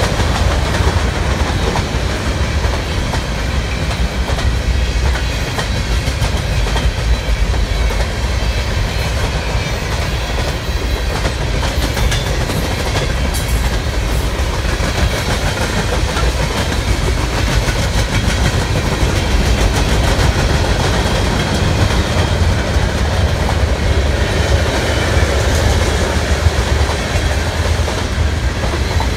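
Freight train cars rolling past at speed: a steady, loud rumble of steel wheels on rail, with the clickety-clack of wheels over the rail joints.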